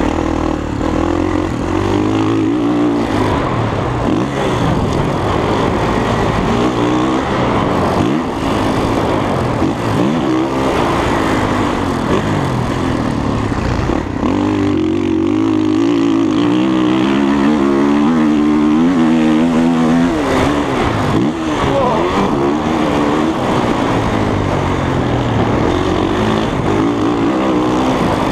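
Dirt bike engine running hard while being ridden, its pitch rising and falling again and again with the throttle.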